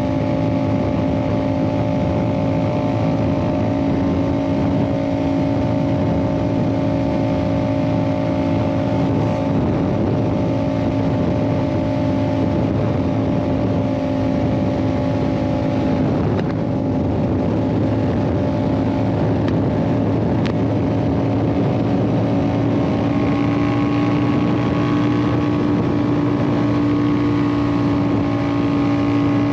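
Yamaha MT-07's 689 cc parallel-twin engine, fitted with an Ixil aftermarket exhaust, running at steady cruising revs under way. The engine note holds nearly level and rises slightly over the last several seconds.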